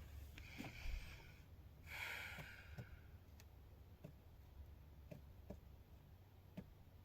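Near silence in a small room: two faint breaths out, the second a little longer, and a few faint scattered clicks.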